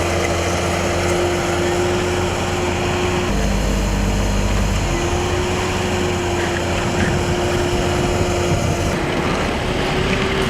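Road-repair machinery and vehicle engines running steadily, a low drone with a held humming tone over it. The mix of sounds shifts abruptly about three seconds in and again near the end.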